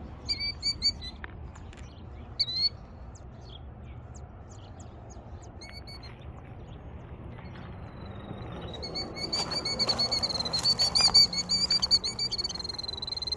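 Killdeer alarm calling near its eggs: a few sharp high calls, then from about eight seconds in a long, rapid trill of high notes. This is the agitated bird protesting an intruder at its nest.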